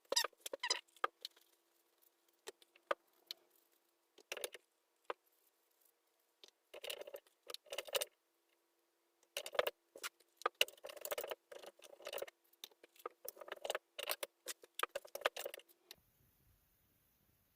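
Short irregular bursts of scraping and clinking as the fountain's pieces are handled and cleaned, busiest in the second half, over a faint steady hum.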